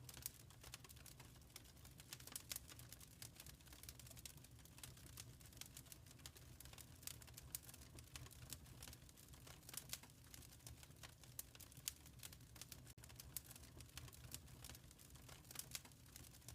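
Quiet wood fire crackling: many small, irregular pops and snaps over a low, steady hum.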